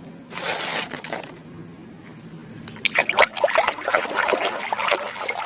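Water splashing and trickling as a muddy toy animal is rinsed. A short rush of water comes about half a second in, then a run of splashes and small knocks through the second half.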